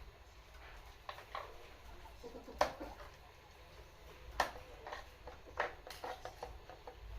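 A series of sharp, irregular clicks and knocks, the loudest about two and a half and four and a half seconds in.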